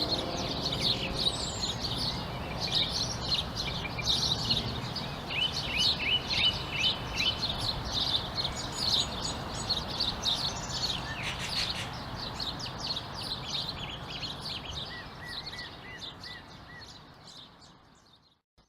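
Many songbirds chirping and twittering at once, a busy overlapping chorus of short calls over a steady low background noise, fading out to silence near the end.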